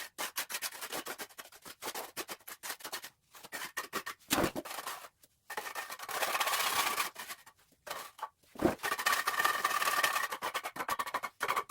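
Trowel scraping over cement mortar in a run of quick short strokes, with two longer drawn-out scrapes in the middle and near the end.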